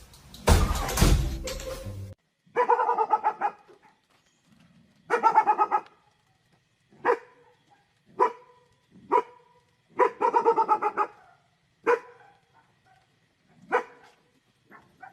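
A dog barking, with single sharp barks and a few quick runs of barks. Music plays for the first two seconds and cuts off before the barking starts.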